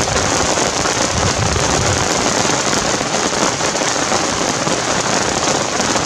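Heavy rain falling in a thunderstorm, a dense, even patter of drops, with a low rumble during the first two seconds.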